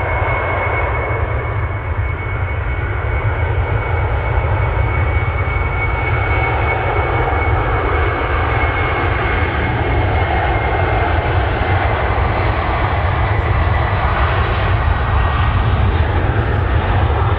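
Jet airliner engines: a steady broad rush with a high whine that drifts slightly lower in pitch, slowly growing louder.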